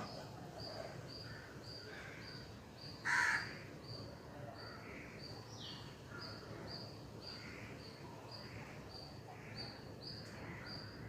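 Faint bird and insect ambience: a thin high chirp repeating evenly almost twice a second, with one louder, harsh bird call about three seconds in.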